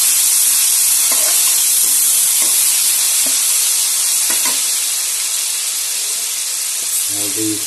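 Freshly added chopped tomatoes sizzling in hot oil with cumin and whole coriander seeds in a kadhai, stirred with a metal ladle. The sizzle is a steady loud hiss that eases off slowly as it goes on.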